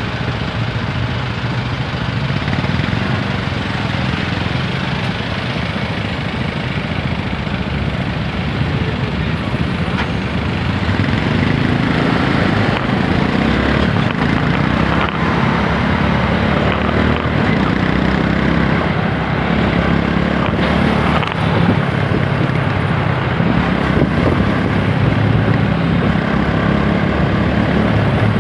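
TVS Apache 160 4V's single-cylinder engine running steadily while riding, heard from the rider's position, growing a little louder about a third of the way through.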